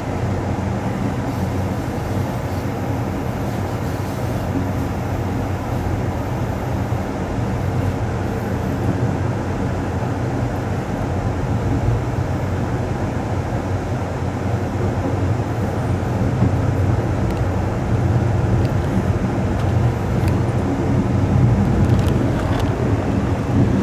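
Steady running rumble of the Amtrak Coast Starlight passenger train rolling along the track, heard from inside its rear car, with a low steady hum under it; it grows a little louder in the last several seconds.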